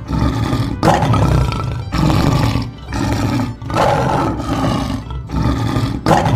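Lion roaring, a series of rough roars about a second apart.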